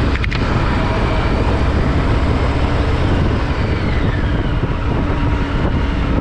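2020 Harley-Davidson Low Rider S's Milwaukee-Eight 114 V-twin running under way, with loud, steady wind rush on the rider's microphone. There is a brief click about a quarter second in.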